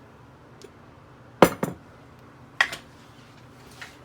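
A few sharp clinks and knocks of kitchenware being handled: a loud double clink about a second and a half in, another a second later, and a couple of light taps around them.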